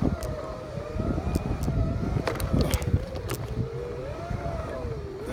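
Segway X2 SE's electric drive whining, its pitch wavering up and down as it speeds up and slows over rough dirt, over a low rumble with a few sharp knocks from the bumps about halfway through.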